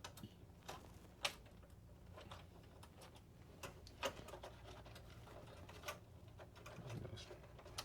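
Faint, scattered light clicks and taps of small console parts being handled and fitted into a PS5 during reassembly, the sharpest about a second in.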